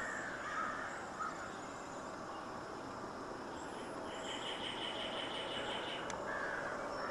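Outdoor bird calls: a few calls near the start and another about six seconds in. About four seconds in, a fast, high-pitched pulsing runs for roughly two seconds, all over a steady hiss.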